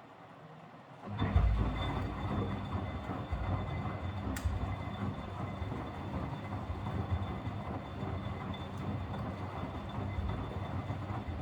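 Miele W761 washing machine's drum turning for about ten seconds during the wash, a steady motor-driven rumble with a faint high whine that starts suddenly about a second in and stops near the end. The owner describes the motor bearings as noisy.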